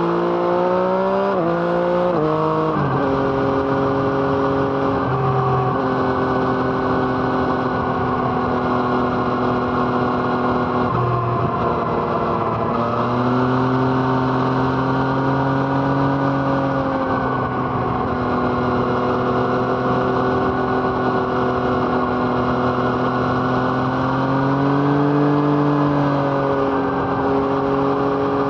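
A Yamaha MT-09's inline three-cylinder engine breathing through an Arrow Thunder exhaust, heard while riding. It pulls through a few quick upshifts in the first three seconds, then cruises at a fairly steady engine speed with small dips and rises.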